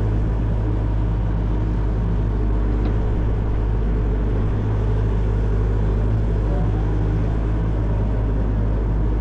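Excavator's diesel engine running steadily at a constant pitch and level.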